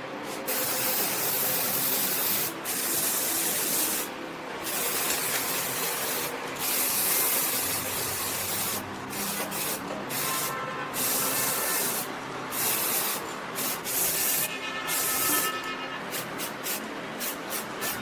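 Hand abrasion of a steel knife blade: repeated hissing scraping strokes with short pauses between them, the strokes coming quicker near the end.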